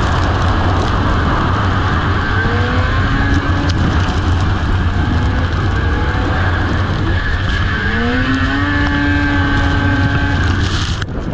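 Racing snowmobile engines at high throttle under heavy wind noise, the engine pitch climbing twice as a sled accelerates. The sound cuts off abruptly near the end.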